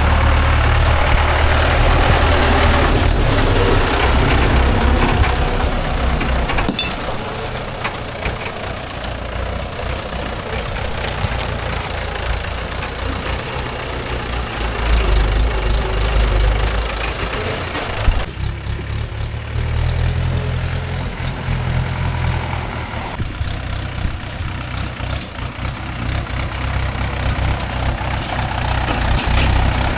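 Diesel engine running, a steady low drone whose strength shifts a few times, dropping about seven seconds in and changing again past the middle.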